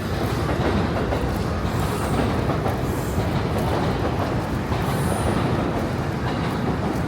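A train passing on nearby tracks: a steady rumble of wheels on rails, with brief high wheel squeals about two and five seconds in.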